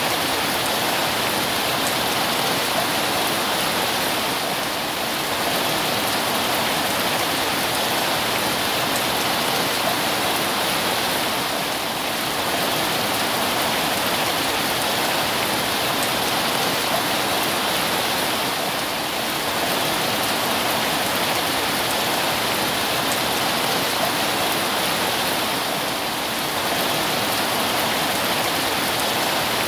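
Heavy, steady rain falling on a tin roof: a dense, even hiss that eases slightly about every seven seconds.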